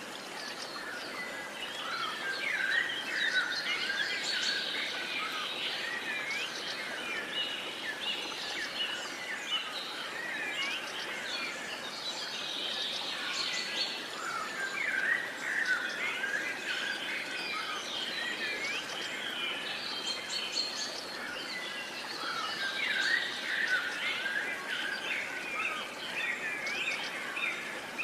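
Many birds chirping and singing at once in a dense chorus of short, quick calls that swells and thins in waves every several seconds, over a faint steady outdoor hiss.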